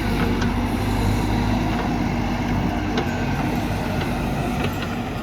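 JCB backhoe loader's diesel engine running steadily under working load, with scattered sharp clicks and knocks.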